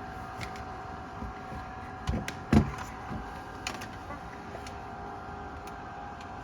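Handling noise during a voltage check on a refrigerator's ice dispenser: a few light clicks and two knocks, the second, about two and a half seconds in, the loudest, over a steady hum.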